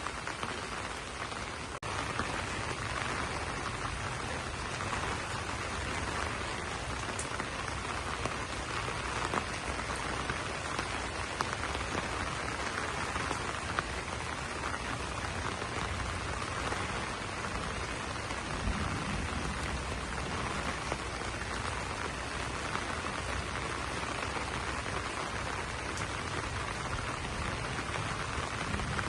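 Steady rain pattering on banana leaves, a dense even hiss with scattered individual drop ticks, becoming slightly louder about two seconds in.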